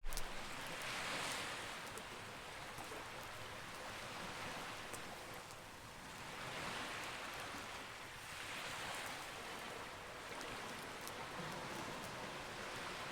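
Sea waves washing in slow swells every two to three seconds, with a campfire's faint scattered crackles over them.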